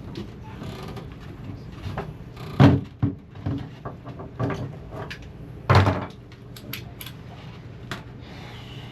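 A string of knocks and clunks from tools and parts being handled, the two loudest about two and a half and six seconds in, with lighter clicks between.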